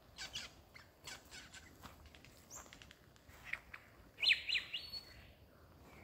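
Wild birds calling in bushland: a scatter of short, sharp calls, then a loud burst of quick downward-sweeping whistles about four seconds in.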